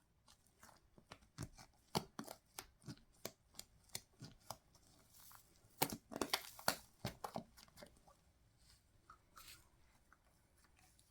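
Close handling noise from hands working toy craft materials: a run of quick, irregular crackles and clicks that is dense for about eight seconds, then thins to a few faint ticks.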